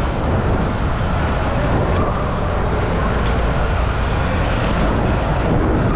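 Steady rushing wind buffeting the microphone while riding at speed, with low road and traffic noise underneath.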